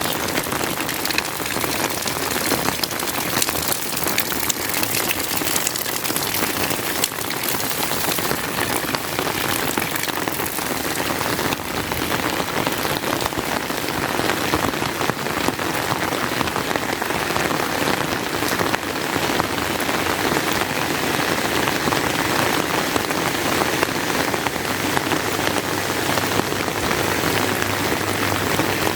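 Steady rain: an even, dense hiss of falling drops with many fine ticks, unbroken throughout.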